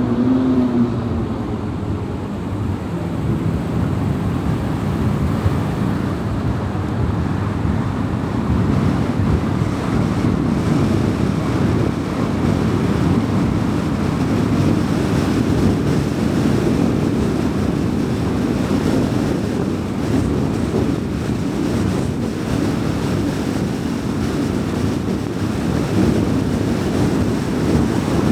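A car driving at road speed: a steady rumble of tyre and road noise with wind, growing louder over the first several seconds and then holding steady.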